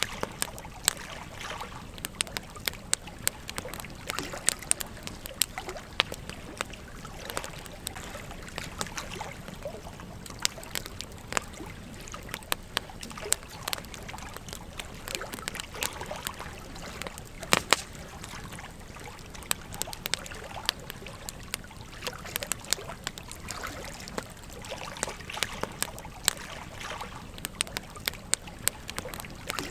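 Wood campfire crackling with frequent sharp pops and snaps over the steady trickle of a gentle stream.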